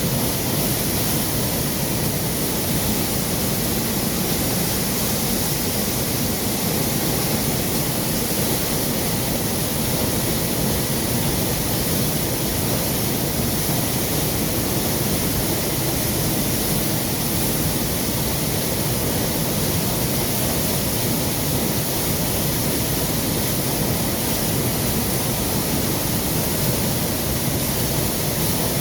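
Steady rush of flowing water, an even hiss that keeps on without a break.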